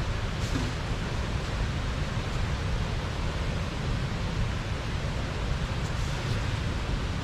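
Steady rushing of water pouring over a small river weir, an even wash of noise, with a few faint clicks on top.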